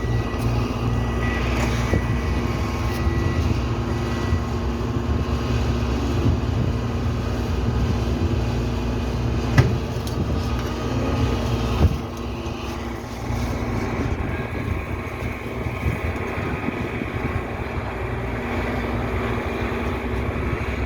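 Heavy truck engine running steadily, with a repeating high beep in the first few seconds like a reversing alarm. A sharp knock comes about halfway through and another a couple of seconds later, after which the deep engine rumble drops away.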